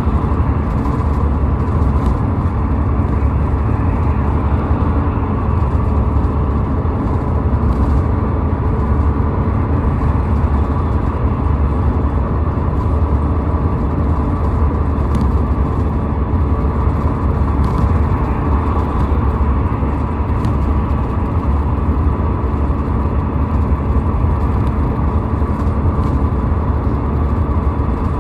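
Steady road noise of a car travelling at highway speed: a continuous low rumble of tyres and engine, with no change in pace.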